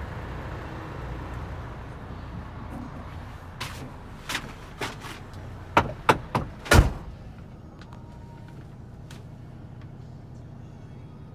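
A run of sharp knocks and clunks over a few seconds, ending in one heavy slam, typical of a lorry's door or locker being worked and shut. A low engine hum runs underneath, fading over the first couple of seconds.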